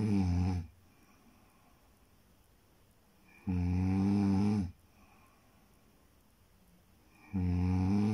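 A person snoring in a slow, even rhythm: a low, droning snore a little over a second long, about every four seconds.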